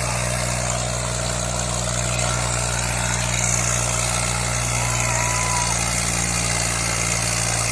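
Eicher tractor's diesel engine running at a steady, even speed, with a low, constant drone.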